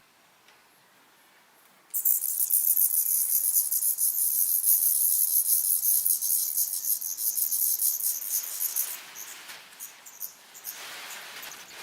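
Nestling birds begging: a sudden burst of very high, rapidly pulsing calls about two seconds in, which holds for about six seconds and then dies away.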